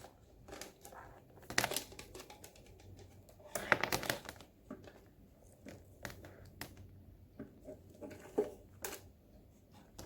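Handling of speakers and their packaging: scattered crinkles, rustles and light knocks, with the loudest bursts about one and a half and four seconds in.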